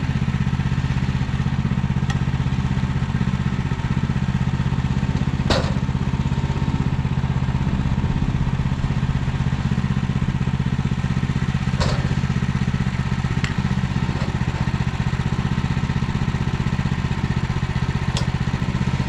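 Small gas engine running steadily at a constant speed, with a sharp click about every six seconds.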